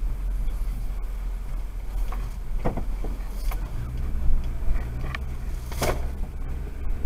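A car driving: a steady low engine and road rumble, with a few brief knocks or clicks, the loudest near the end.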